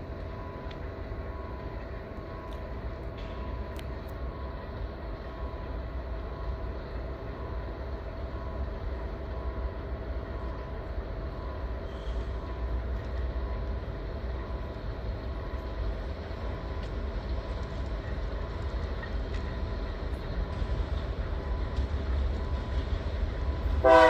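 Diesel-electric locomotives heading a coal train, heard from a distance as they approach: a steady engine drone of several held tones over a low rumble, slowly growing louder. Right at the end the locomotive horn sounds loudly.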